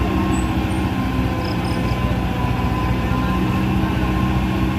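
Diesel engine running steadily at an even speed.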